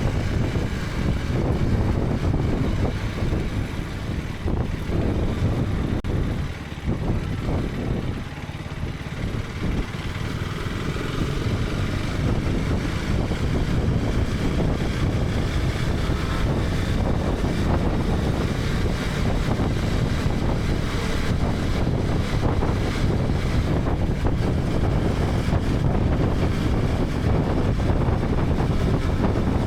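KTM 250 Adventure's single-cylinder engine running under way, mixed with wind buffeting on the helmet-mounted microphone. The sound eases off briefly about seven seconds in, then builds back up and holds steady.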